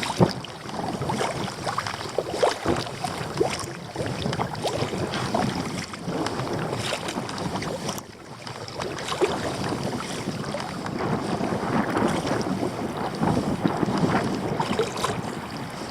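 Wind buffeting the microphone over water splashing and lapping against a kayak on open water.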